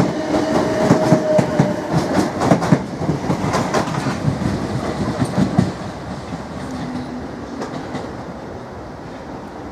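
South West Trains Class 455 electric multiple unit running past and away, its wheels clicking rapidly over the rail joints, with a brief whine near the start; the clatter thins out and fades as the train recedes.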